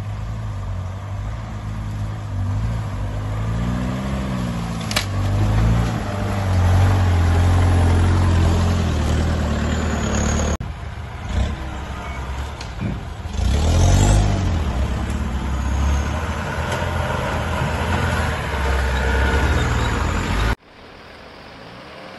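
Off-road 4x4 engine working under load on a steep overgrown trail, the revs rising and falling as the driver feeds throttle, with a sharp crack about five seconds in. The sound breaks off abruptly twice, near the middle and a couple of seconds before the end, and is quieter after the second break.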